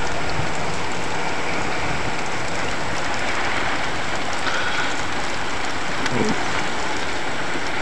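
Heavy rain pouring down steadily, an even, dense hiss of rain on the ground with no letup.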